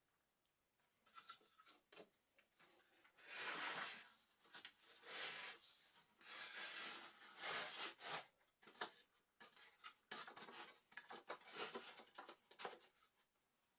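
Faint rubbing strokes on wood, four or five lasting about half a second to a second each, followed by a quick run of light clicks and taps.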